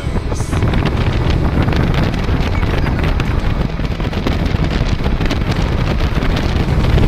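Heavy wind buffeting on an action camera's microphone while riding a motorcycle at speed, a loud, steady rumble with crackle, with the bike's running barely separable beneath it.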